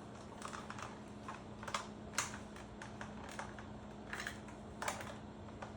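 Scattered light plastic clicks and rattles as a vegetable chopper with a julienne slicer insert is taken apart, a click every half second to a second, over a faint steady hum.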